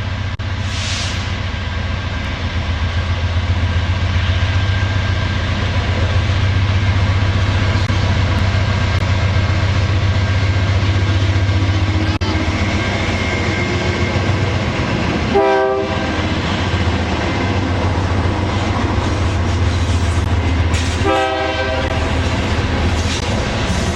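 Diesel locomotives of a freight train passing close by, their engines droning steadily with wheels clattering on the rails. Two short horn blasts sound, a very brief one about two-thirds of the way through and a slightly longer one near the end.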